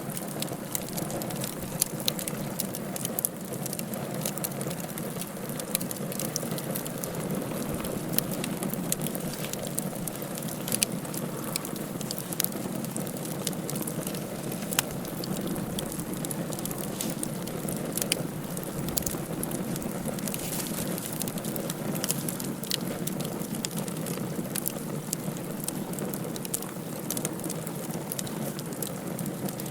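Wood fire burning in a fireplace: a steady low rush of flame with frequent, irregular crackles and sharp pops.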